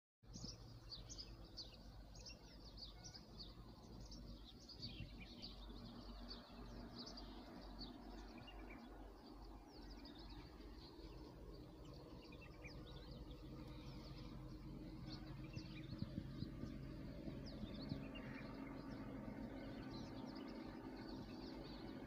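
Faint, rapid, high-pitched chirping of small birds, busiest in the first half, over a low steady background rumble.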